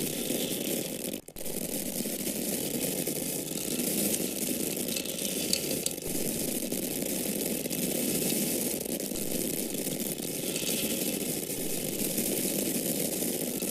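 Dry corn kernels pouring and falling, a continuous dense rattle. It breaks off very briefly about a second in.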